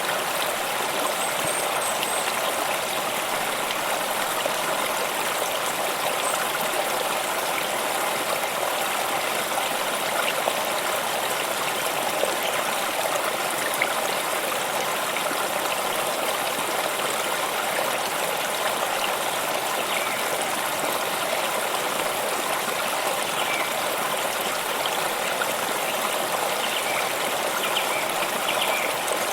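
Water stream flowing and trickling steadily.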